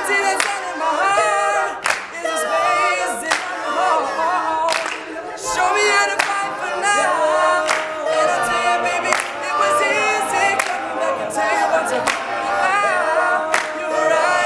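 All-male a cappella group singing in close harmony, with no instruments, over a steady percussive beat.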